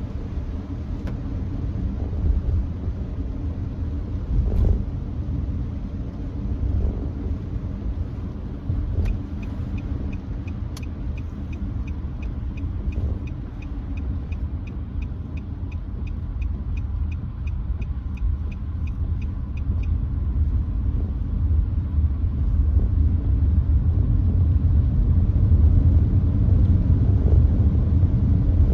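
Cabin road noise of a Nissan Note e-POWER cruising on a wet expressway: a steady low rumble of tyres on the wet road. In the middle, a run of even ticks, about three or four a second, goes on for around ten seconds, and the rumble grows a little louder near the end.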